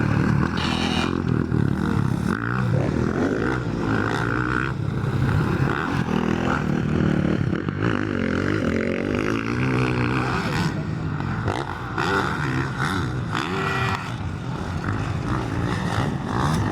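Motocross bike engines running on a race track, the pitch rising and falling as the bikes rev, accelerate and shift.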